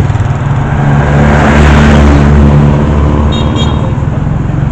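Motor vehicle engine running steadily, with road noise swelling up to a peak about two seconds in and then fading, as of a vehicle passing close by.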